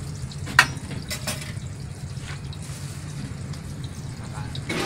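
Martabak telur frying in oil on a wide flat iron pan, a faint steady sizzle with a few small pops. One sharp click stands out about half a second in, over a steady low hum.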